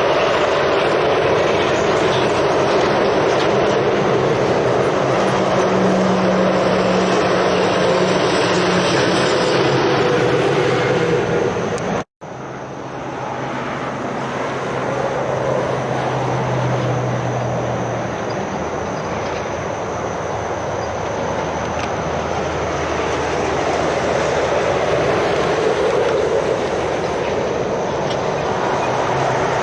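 Heavy lorries passing on a road: steady tyre and road noise with the low hum of diesel engines that rises and fades as they go by. The sound drops out for an instant about twelve seconds in.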